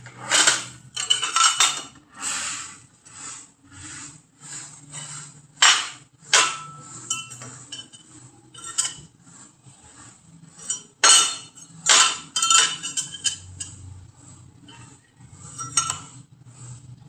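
Metal pieces clinking and clattering in irregular knocks, several leaving a short metallic ring.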